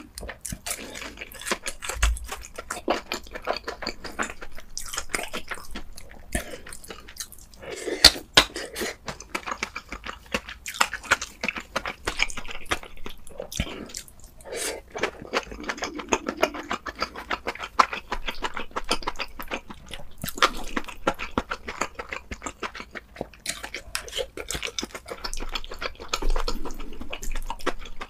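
Close-miked eating sounds: a person chewing food, with many short, irregular wet smacks and clicks of the mouth.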